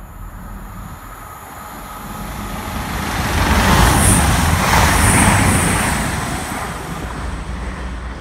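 CrossCountry Voyager diesel multiple unit passing the platform: a rush of wheel and engine noise that swells, is loudest about four to five seconds in, then fades away.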